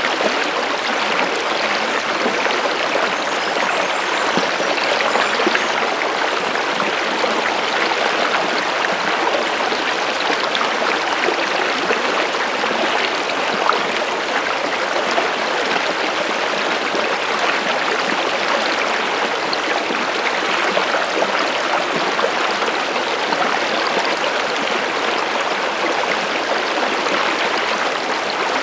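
Stream water flowing and babbling steadily over rocks, a continuous rush with fine splashing texture.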